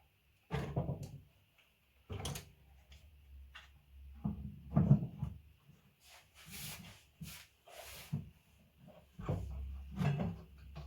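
Handling noises on a workbench: a series of irregular knocks and clunks, the loudest about five seconds in, with a low steady hum coming in near the end.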